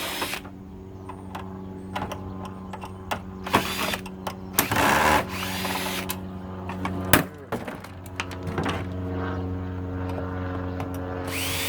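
Clicks, knocks and clatter of an air purifier's plastic housing and parts being pried and handled during dismantling, with a louder rattling stretch about five seconds in, over a steady low hum.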